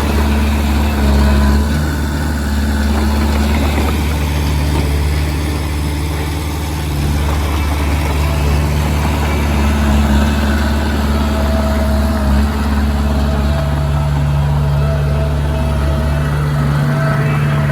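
Diesel engine of heavy earthmoving machinery running steadily at a low, even pitch, with small rises and dips in load.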